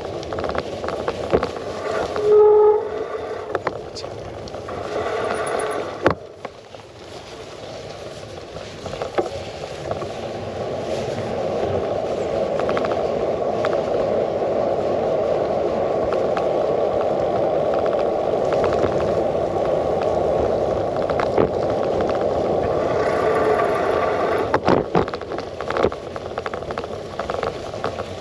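Bicycle riding over a rough track, heard through a handlebar-mounted GoPro: the bike and mount rattle with frequent clicks and knocks over steady wind and tyre noise. The noise swells louder from about a third of the way in. There is a short pitched squeal about two and a half seconds in.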